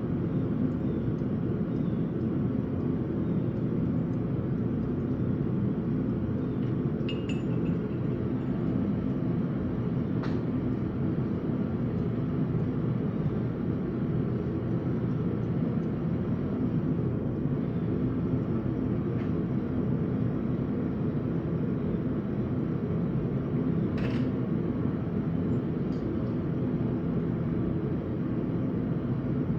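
A forge running with a steady, even rushing noise, with a couple of faint light clicks over it.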